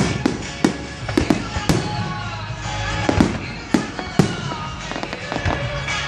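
Fireworks exploding in a display, a rapid irregular series of sharp bangs, some in quick pairs, with music playing underneath.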